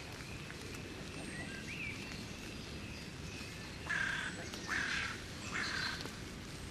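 Outdoor rural ambience: a steady low background rumble with faint bird chirps, then three loud, harsh bird calls about four to six seconds in, each lasting under half a second.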